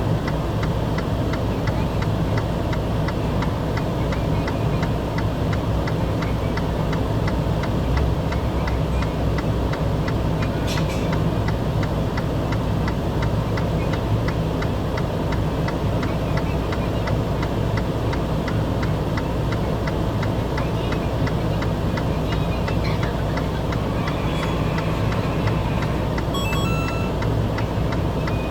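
Steady vehicle engine and road drone with a fast, even ticking running through it.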